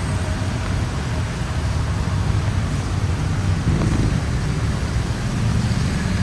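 Steady rumble of road traffic on a busy city street, with passing cars and other vehicles blending into one continuous low noise.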